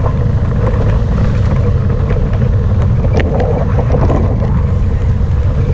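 Heavy wind buffeting on the microphone of a moving motorbike, a steady loud rumble, with the bike's small engine running underneath. There is one short tick about three seconds in.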